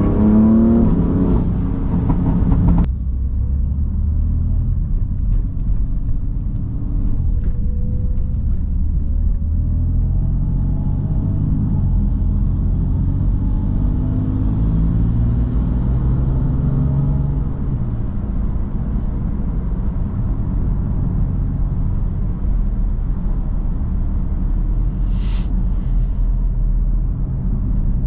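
BMW M3 F80's 3.0-litre twin-turbo inline-six pulling hard, revs climbing for the first few seconds, then cutting off abruptly off the throttle. It then settles into a steady low rumble with tyre and road noise while cruising, the revs rising gently again midway, and a brief high-pitched chirp near the end.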